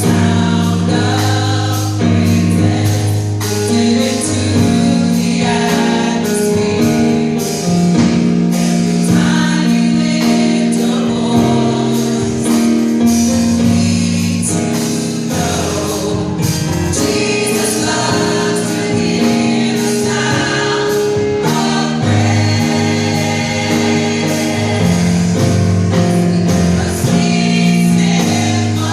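Gospel choir singing a praise song with band accompaniment and a steady beat.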